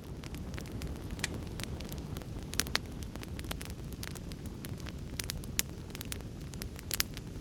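Wood fire in a fireplace crackling: a steady low rumble of flames with frequent sharp pops and snaps, a few louder ones standing out.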